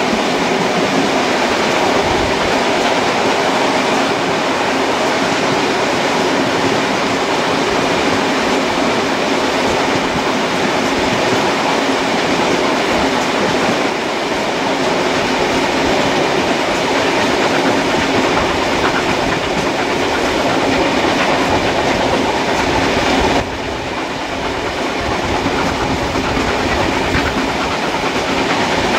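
Steam-hauled passenger train carriage running at speed, heard at an open window: a steady, loud running noise of wheels on rails, dipping slightly about 23 seconds in.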